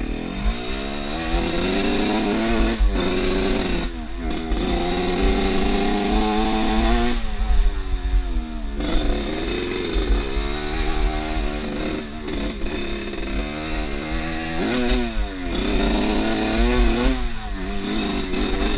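Off-road motorcycle engine revving as it is ridden, its pitch climbing and dropping again and again as the throttle is opened and shut and gears change.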